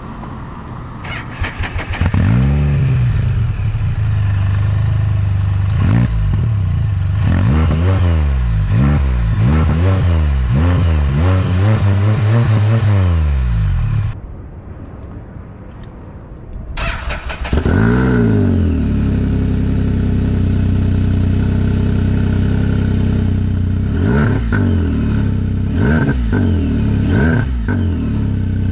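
Can-Am Spyder F3's Rotax 1330 inline three-cylinder engine running through a freshly fitted RLS Punisher slip-on exhaust, revved up and down repeatedly. There is a brief quieter stretch about halfway through, then more revs.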